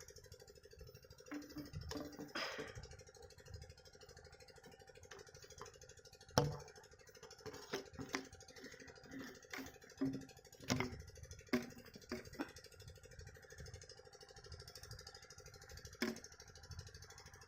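Scattered mechanical clicks and knocks over a steady faint hum, the loudest knock about six seconds in.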